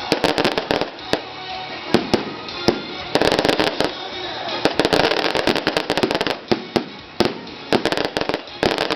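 Firecrackers going off in rapid, irregular bangs, some single and some in dense crackling clusters.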